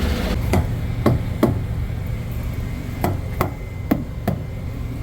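About eight sharp knocks and thumps at irregular intervals over the steady low rumble of an idling semi-truck engine.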